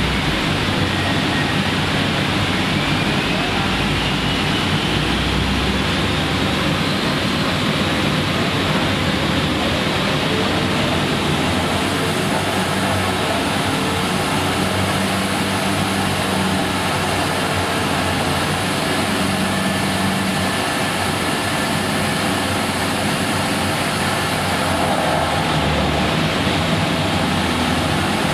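Nissan S15 200SX's turbocharged SR20DET four-cylinder running on a chassis dyno for a power run, with a whine that rises steadily in pitch over the first several seconds. It sits under a loud, steady rushing noise.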